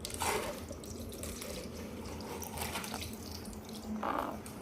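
Water spurting and dripping from the nozzles of a small Hero's engine model, the jets that set it spinning.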